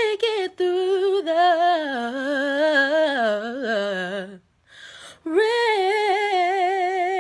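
A woman singing a cappella: a wordless run that winds downward in pitch over about four seconds, a brief pause for breath, then one long held note with vibrato.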